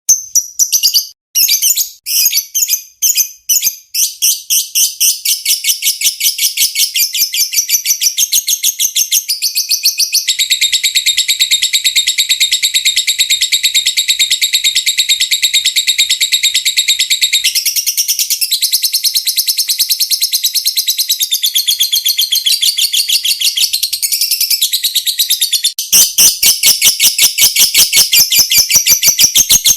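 Lovebird chattering in a long, rapid trill of high notes, the 'ngekek panjang' prized in training recordings. It opens with a few separate notes, runs into a continuous fast chatter, and about 26 s in turns sharper and louder.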